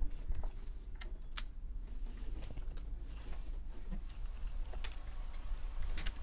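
Scattered small clicks and taps of tools being handled at an electronics repair bench, over a low steady hum.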